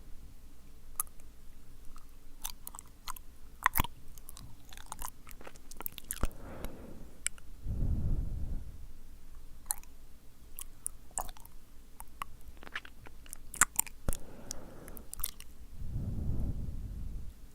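Close-miked ASMR mouth sounds: many wet clicks and smacks scattered throughout, with two long breaths blown onto the microphone, one near the middle and one near the end.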